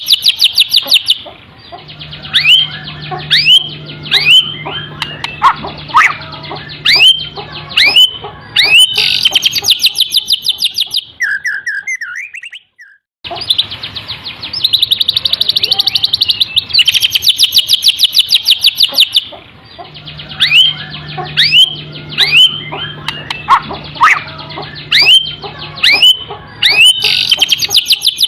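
White-rumped shama (murai batu) singing canary-style phrases: dense, fast, high trills alternating with runs of short upward-sweeping whistles. The song breaks off briefly about 12 seconds in, then the same sequence starts over.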